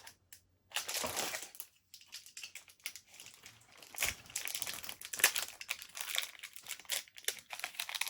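Wrapping on a bird-food suet block crinkling and rustling in irregular bursts as it is handled and opened.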